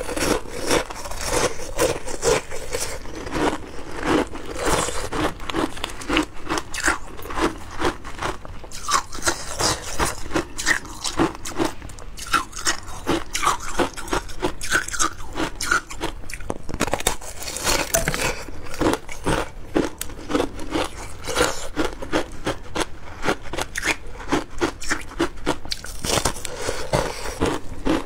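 Close-up crunching and chewing of frozen passion fruit shaved ice in the mouth, a fast, steady run of crisp crunches.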